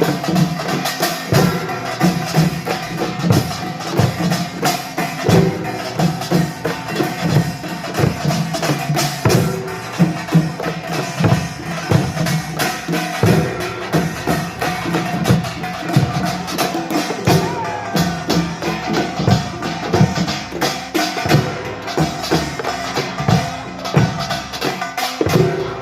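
Korean pungmul percussion band playing: gongs and drums beating a dense, continuous rhythm.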